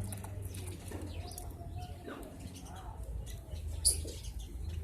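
House sparrows chirping in short, quick notes, with one sharp louder note near the end, over a low steady hum.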